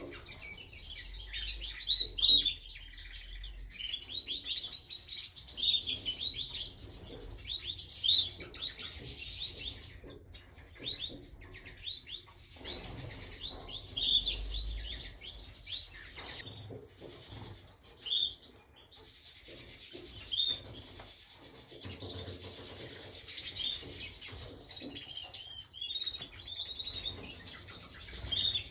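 Canary singing in an aviary: bursts of quick chirps and short trills, broken by brief pauses.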